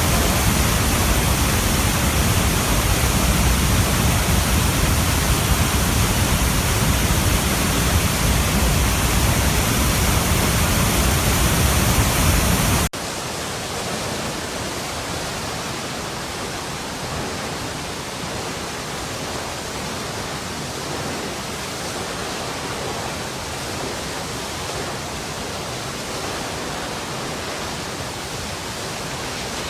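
Running water making a steady, even rush. About 13 seconds in it cuts abruptly to a quieter, thinner water sound with much less low rumble.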